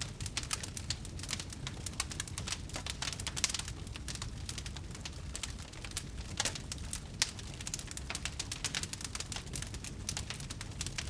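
Wood fire crackling and popping in a fireplace: many small irregular crackles with an occasional sharper pop, over a low steady rumble of the flames.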